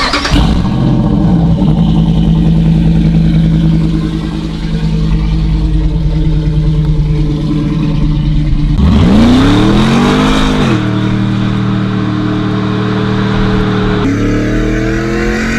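Hemi V8 running through a Flowmaster exhaust, idling with a deep steady note. About nine seconds in it is revved once, rising and falling back to idle, with a shorter blip near the end.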